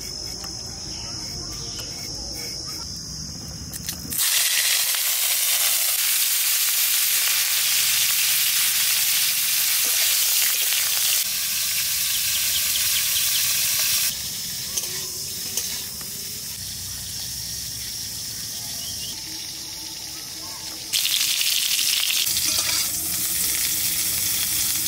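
Cauliflower pieces frying in hot oil in a karahi over a wood fire: a loud sizzle begins suddenly about four seconds in, eases off a little past the middle, then turns loud again near the end while a spatula stirs the pieces. Before the sizzle, crickets chirr steadily.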